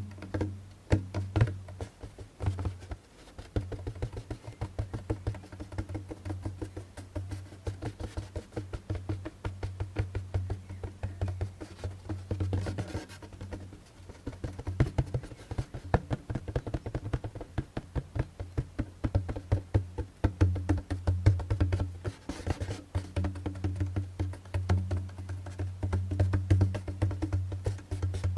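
Djembe hand drum tapped and struck rapidly with the fingers and hands: a dense run of quick taps over the drum's low, booming resonance.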